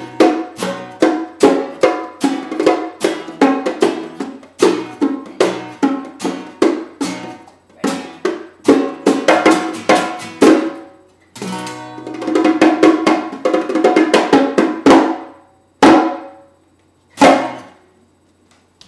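Strummed string instrument playing a rhythmic chord accompaniment with sharp, percussive strokes. It quickens into a rapid run of strums, then ends on two last chords left to ring out.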